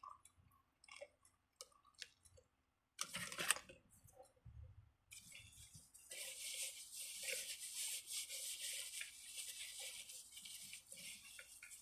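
A person chewing crunchy food close to the microphone, starting about five seconds in, after a few soft clicks and a short rustle.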